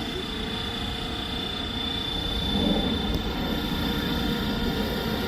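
Scale radio-controlled model helicopter in flight, its rotors and drive making a steady high whine over a rushing noise, growing a little louder about halfway through.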